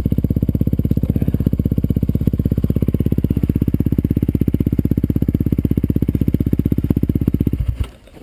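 Dirt bike engine running steadily at low revs, an even thudding of about a dozen pulses a second, which stops abruptly near the end.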